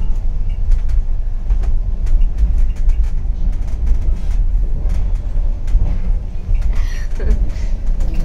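Passenger train running, heard from inside the coach: a steady low rumble with scattered sharp clicks and rattles.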